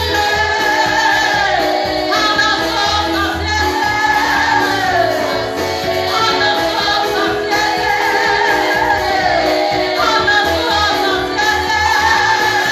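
Gospel music: a choir and singers over a steady low bass line, with sung melodies that glide up and down.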